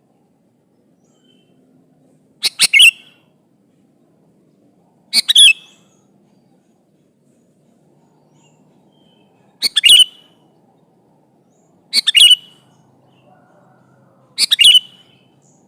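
Sooty-headed bulbul (kutilang) calling: five short, loud chirping phrases, each about half a second, spaced two to four seconds apart.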